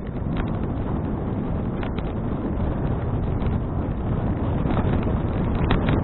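Wind buffeting an action camera's microphone while riding a bicycle: a steady low rumble, with scattered light clicks.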